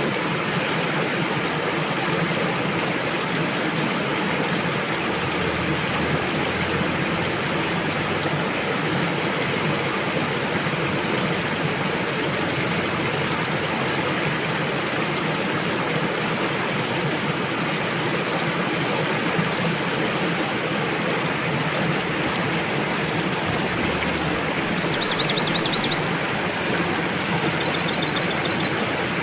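Steady rush of a river's flowing water. About 25 seconds in, and again near the end, a small bird gives a short, high, rapid trill.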